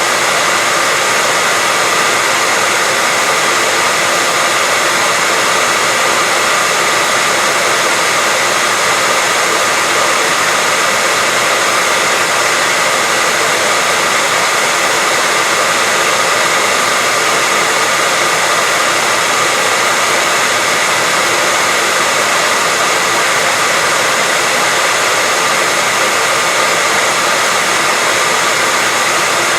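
Hair dryer running continuously at a steady speed: an even, unbroken rush of air with a faint steady whine from its fan motor.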